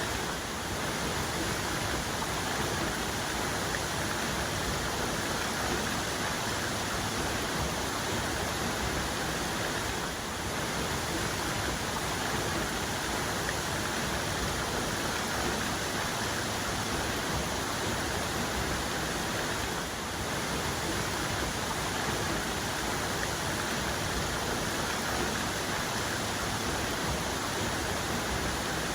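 Waterfall's main cascade: a steady rush of falling water.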